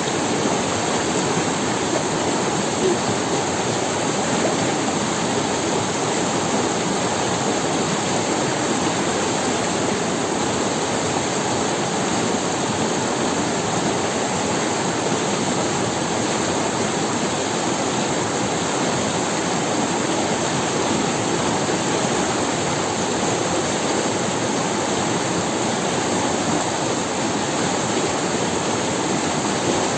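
Forest river running over stones: a steady, even rush of flowing water.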